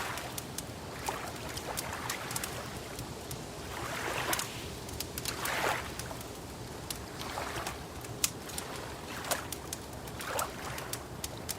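Wood fire crackling, with many sharp scattered pops, over soft recurring washes of lapping lake water.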